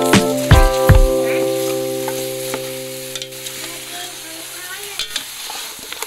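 Food frying and sizzling in a pan while being stirred, with three sharp knocks in the first second. A held background-music chord fades out under it.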